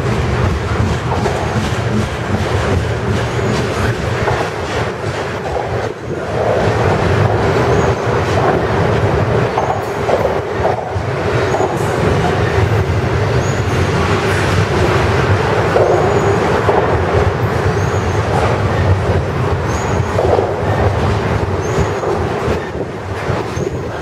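Double-stack intermodal container well cars rolling past, a steady loud rumble of steel wheels on rail with clicking over the rail joints. Brief faint high squeaks come every couple of seconds through the middle.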